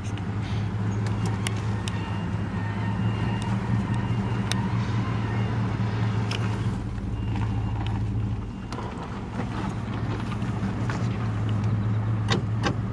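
Steady low drone of a car's engine and tyres heard from inside the cabin while driving, with scattered small clicks and knocks.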